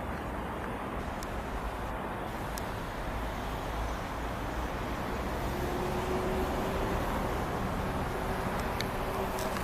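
Steady road traffic noise, with a vehicle engine hum coming in about halfway through.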